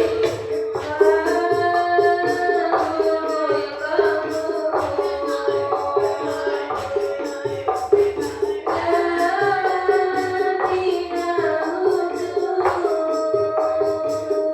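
Sholawat singing in the diba' style: a melody sung in long held, sliding notes over a steady rhythm of frame drums with jingling tambourine strokes.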